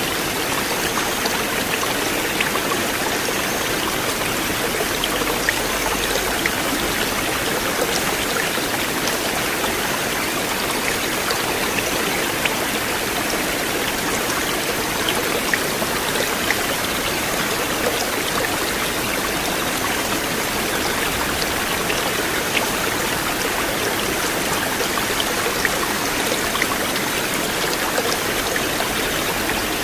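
River water flowing steadily: an even, unbroken rush with many small splashing ticks in it.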